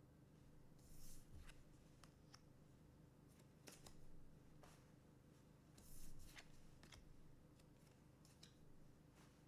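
Trading cards being handled: faint scattered clicks and two brief sliding swishes, about a second in and about six seconds in, over a low room hum.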